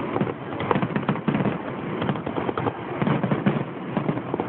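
Fireworks display going off: a dense, irregular run of quick pops, bangs and crackles.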